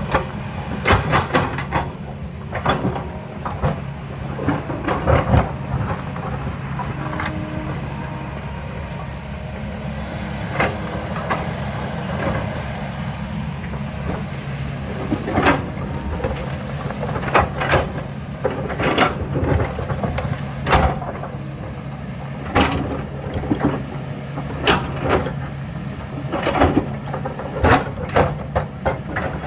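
Diesel engine of an earthmoving machine running steadily under load, with many irregular sharp metallic clanks and knocks from the machine at work.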